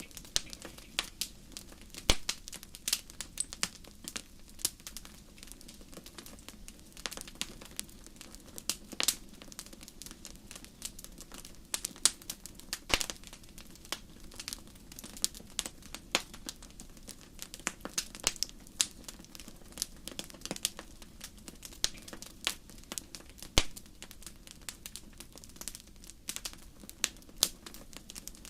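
Wood fire crackling in a fireplace: irregular sharp pops and snaps, several a second, over a steady low hiss of the burning logs.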